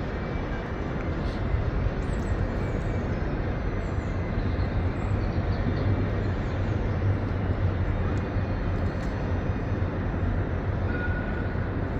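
A train's steady low rumble under a station roof, swelling about four seconds in, with faint high chirps over it.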